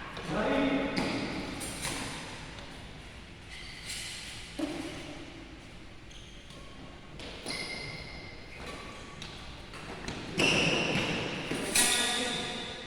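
Badminton rackets striking a shuttlecock during a rally, a series of sharp, irregularly spaced hits, each ringing on in the echo of a large hall.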